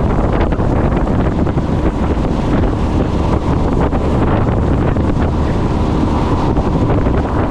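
A small boat under way: heavy wind buffeting the microphone over the steady drone of the boat's engine and water rushing past the hull.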